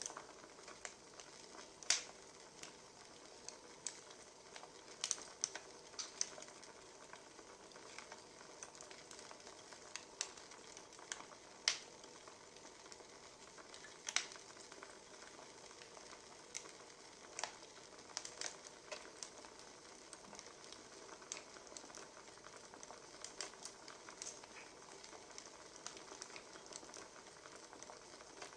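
Wood fire crackling: a steady soft hiss with irregular sharp pops and snaps, a few much louder than the rest.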